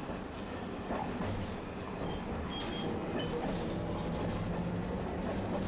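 Tosaden streetcar running on its tracks: a steady rumble of wheels and running gear. A brief high-pitched tone comes about two and a half seconds in, and a low motor hum grows stronger near the end.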